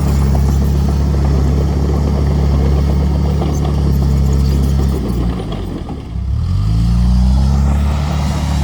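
Heavy machine's diesel engine running steadily under load. About five seconds in, the engine speed drops, then it revs back up a second or so later.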